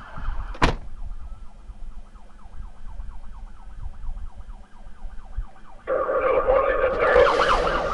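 Police car siren heard from inside the pursuing patrol car, a fast repeating sweep, with a sharp click just after the start. About six seconds in, a much louder burst of sound cuts in suddenly.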